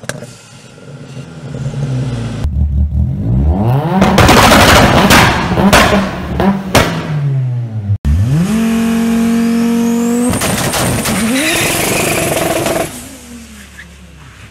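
Audi engines revved hard at a standstill through a loud exhaust: first a rising rev with a string of sharp exhaust bangs and pops, typical of anti-lag and a 2-step limiter. After a sudden cut, a second Audi's engine is held at steady high revs on launch control for about two seconds, then launches with revs climbing and tyre squeal from wheelspin, fading away near the end.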